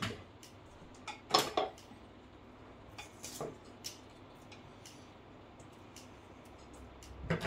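Scattered knocks and clatter of hard objects being handled and set down: a loud double knock about a second and a half in, a few lighter clicks around three to four seconds, and another knock near the end.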